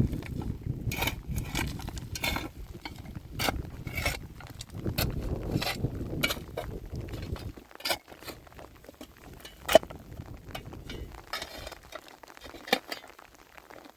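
Scattered clinks and knocks over a low rumble; the rumble dies away about eight seconds in, leaving sparser clicks and two sharper knocks, one near ten seconds and one near the end.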